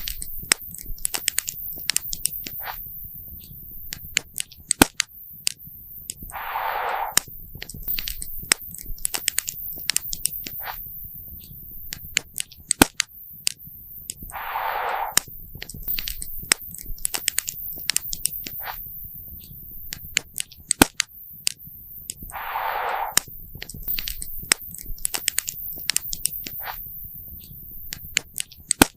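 Wood campfire crackling, with many sharp, irregular pops. About every eight seconds there is a short burst of hiss.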